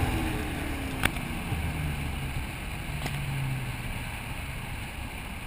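Mustang V8 engine coming off the throttle after a pull, its pitch falling steadily as the revs drop, then settling low and fading about three and a half seconds in, with two sharp ticks along the way.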